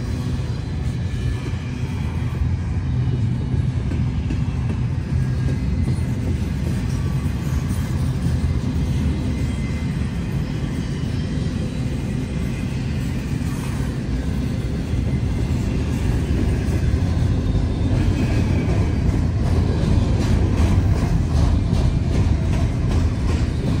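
Freight cars of a CN mixed freight train rolling past with a steady low rumble. Wheel clacks over the rail joints come through more in the second half.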